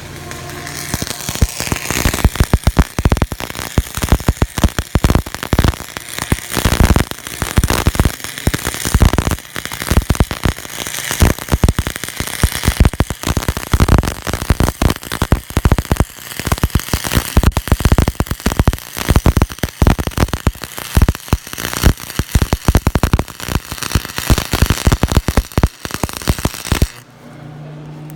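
Stick (arc) welding arc, set at 105 amps, crackling and popping irregularly as a butt weld is run on steel. It starts about a second in and cuts off abruptly near the end as the rod is pulled away from the weld.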